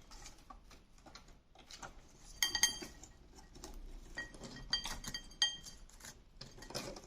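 Two cockatiels scuffling over a chewing stick: light taps and sharp clinks in two quick clusters, about two and a half seconds in and again from about four to five and a half seconds.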